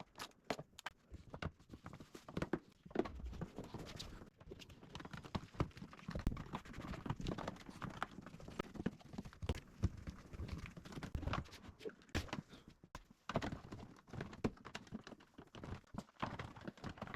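Irregular light clicks, taps and knocks of car parts and fasteners being handled and fitted back into place during reassembly.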